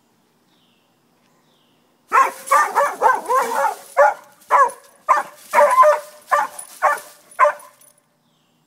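A dog barking in a quick run of about a dozen short, pitched barks, starting about two seconds in and stopping near the end.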